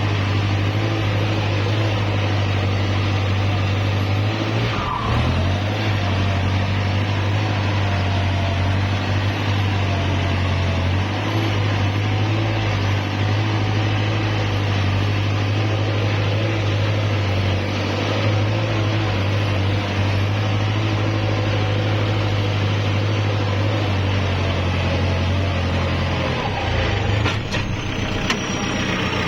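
Kubota L5018 tractor's diesel engine running steadily under load while pulling a plough, with a low, even hum. The engine note wavers briefly near the end.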